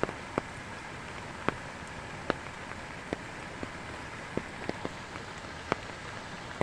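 Steady rain, with large drops landing close by in sharp, irregular taps, about a dozen of them.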